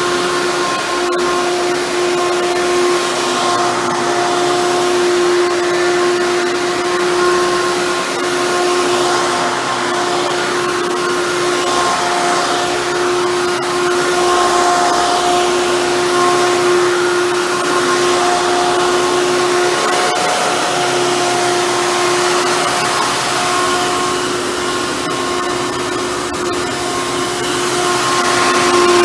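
Hoover Bagless Twin Chamber upright vacuum cleaner running steadily: a constant motor whine over the rush of airflow.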